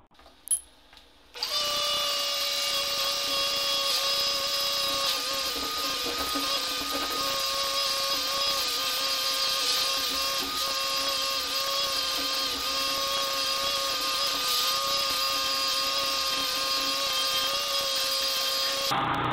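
A handheld electric power tool's motor starts suddenly a second or so in and runs steadily with a high whine that wavers slightly in pitch, as under a varying load, until it stops abruptly near the end.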